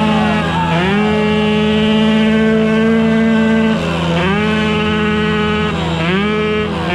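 Dirt bike engines revving hard, each rev held high for a second or two, then dropping and climbing again several times.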